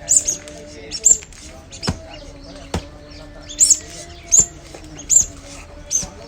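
A pet bird chirping: about six short, sharp, high chirps, roughly one a second, over a steady low hum, with two brief knocks about two seconds in and just under three seconds in.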